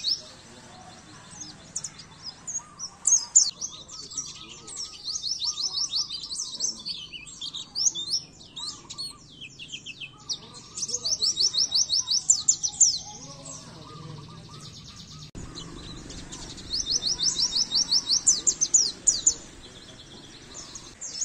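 White-eye (pleci) song: several bouts of fast, high-pitched chattering trills made of rapid repeated sweeps, with short pauses between the bouts.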